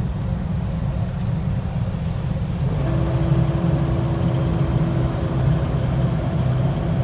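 Vehicle engine running steadily with a low drone; about three seconds in a steady higher hum joins it and the sound grows a little louder.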